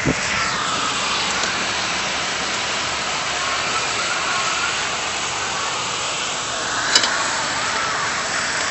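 Steady hiss of a city snowstorm, wind with traffic passing on the street, and a single sharp click about seven seconds in.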